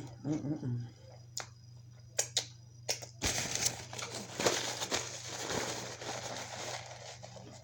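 Close-up eating and takeout-food handling: a short hum of the mouth at the start, a few sharp clicks, then about four seconds of dense crinkling and crackling, like food wrapper or paper being handled.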